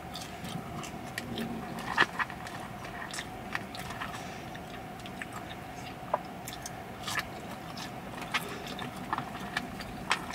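A person chewing and biting yam fries close to the microphone: irregular small clicks of the mouth and food, with a louder one about two seconds in.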